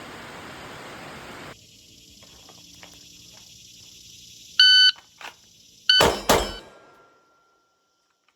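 Steady hiss of rain on a tin roof that cuts off abruptly about a second and a half in. Later a short electronic beep sounds, then a second beep with two loud sharp knocks about a third of a second apart, a faint lingering tone, and then silence.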